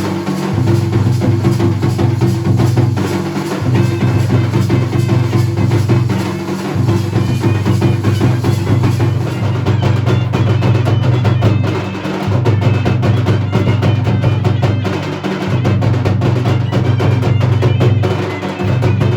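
Kurum dhol (nagada) drums played fast and continuously, a dense roll of strokes over a deep, booming low end that drops out briefly about every three seconds.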